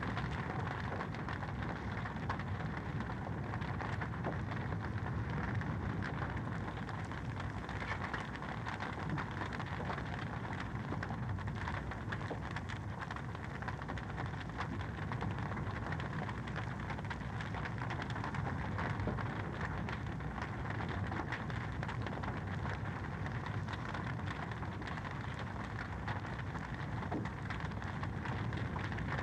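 Wood fire in a fireplace crackling steadily, with a dense run of small pops over an even hiss.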